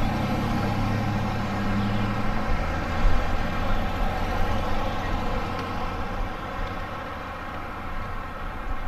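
Motor vehicle engine running steadily, a low hum that eases after about two and a half seconds.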